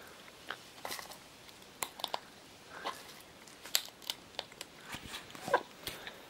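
Scarlet macaw chewing and biting something hard, giving irregular short crunches and clicks.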